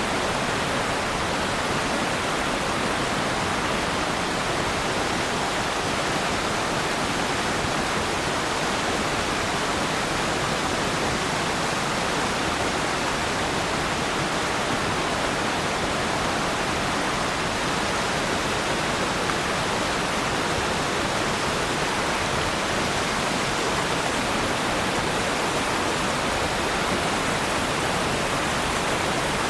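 Waterfall: water falling and rushing in a steady, even roar without breaks.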